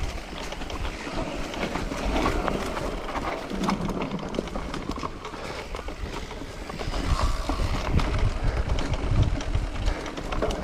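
Mountain bike rolling fast along a dirt singletrack trail: tyre noise on the ground with scattered rattles and clicks from the bike, and wind buffeting the microphone.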